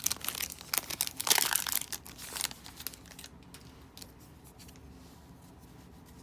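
Foil wrapper of a 2020 Series 1 baseball card pack being torn open and crinkled, in quick bursts of rustling over about the first two and a half seconds.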